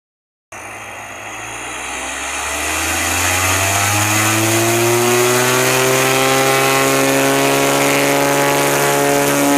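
Propeller airplane engine starting up loud and rising in pitch and loudness over the first few seconds as the throttle opens, then running steady at high power.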